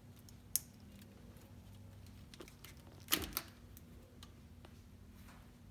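Sharp clicks of parts being unclipped and handled while lines are disconnected in a jet ski's engine bay: one about half a second in and a louder pair about three seconds in, over a faint steady hum.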